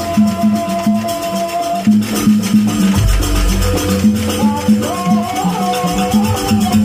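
Live jaranan ensemble music: a held, bending reed-pipe melody over a steady beat of low pitched percussion, with jingling, rattling percussion above.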